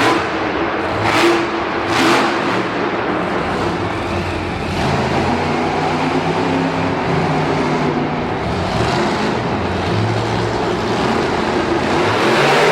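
Monster truck engine running loud and revving, its pitch rising and falling, with a few sharp surges of noise in the first couple of seconds.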